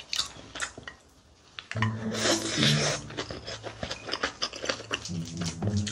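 Close-miked chewing of a big mouthful of spicy mixed rice (bibimbap): wet mouth sounds with many small clicks and crackles. There is a brief lull about a second in, then a denser, louder stretch of chewing.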